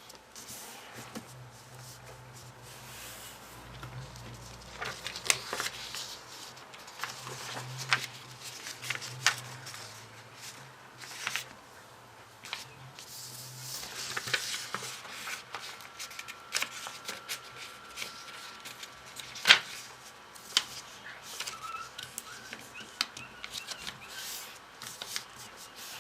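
Sheets of origami paper being handled, folded and creased, rustling with many sharp snaps and clicks, one clearly louder snap about three quarters of the way through.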